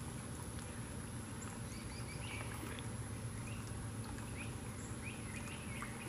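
Faint short bird chirps, a series of quick rising notes starting about two seconds in, over a steady low background rumble.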